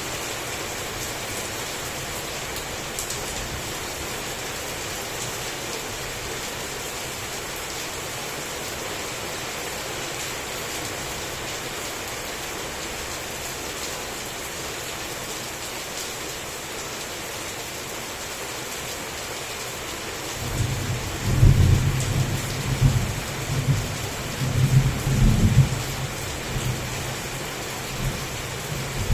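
Heavy rain falling steadily in an even hiss. About two-thirds of the way through, a roll of thunder comes in as a deep rumble that swells several times and is the loudest sound, then dies back to a faint grumble under the rain.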